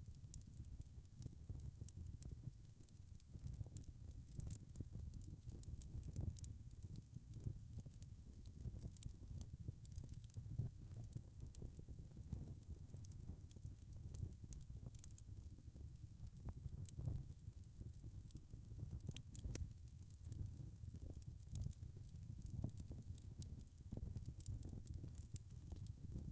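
Wood fire burning in a fireplace: many small, irregular crackles and snaps over a low, steady rumble of the flames.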